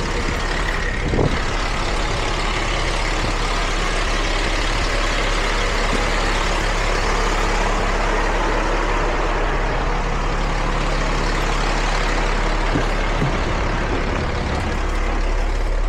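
Heavy truck engine running steadily, with a brief knock about a second in.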